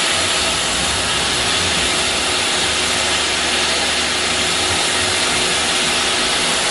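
CNC router's 6 kW HSD spindle running steadily as it cuts, a constant high machining noise.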